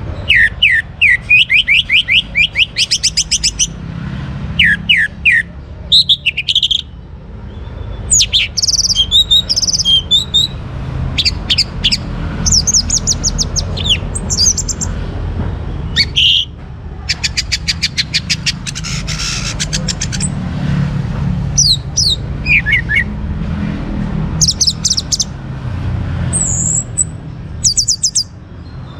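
Young orange-headed thrush singing a varied, loud song of short phrases: rapid runs of repeated notes, downslurred whistles and high trills. A steady low rumble sits underneath.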